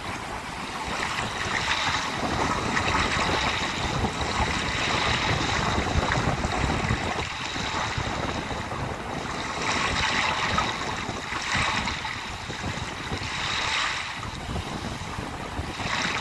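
Sea waves washing onto the shore, the surf rising and falling in repeated surges every couple of seconds, with wind rumbling on the microphone.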